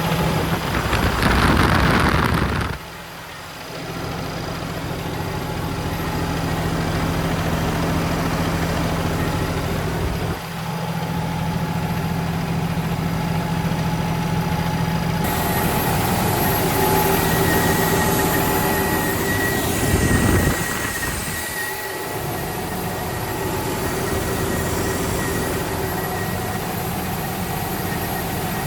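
Vacuum jetter combo truck running, its Cummins ISX12 diesel engine giving a steady, constant hum; the sound changes abruptly several times, as separate stretches are joined together.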